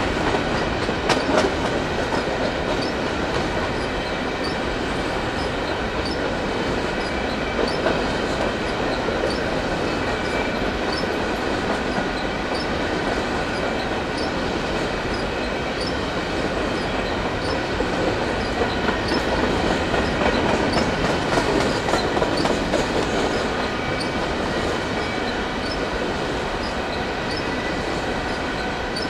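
Empty covered grain hopper cars of a freight train rolling past on steel rails: a steady rumble of wheels on track with light rhythmic clicking and a thin steady wheel squeal.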